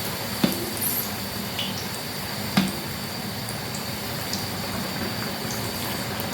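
Puff puff dough balls deep-frying in hot oil, a steady sizzle and bubbling, with two sharp clicks of a spoon against the pan, about half a second in and again a couple of seconds later.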